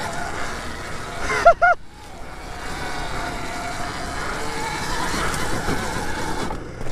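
Riding an Alta electric dirt bike: steady wind and riding noise with a faint wavering motor whine. About a second and a half in, two short loud whoops from a rider.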